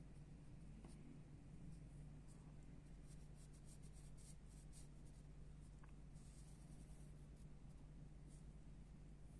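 Faint pencil sketching on paper: short, irregular scratchy strokes that come in clusters, over a steady low hum.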